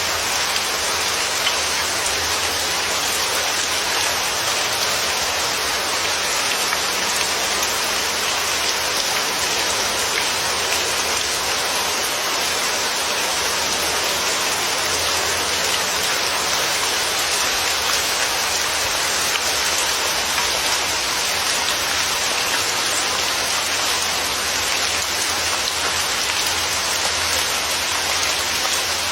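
Steady heavy rain falling and pattering on a surface, an even hiss of many drops that holds level throughout.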